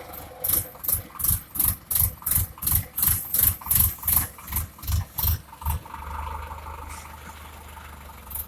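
Tractor-powered ground-drilling machine working: a rhythmic knocking about three times a second for about five seconds, then the engine running steadily once the knocking stops.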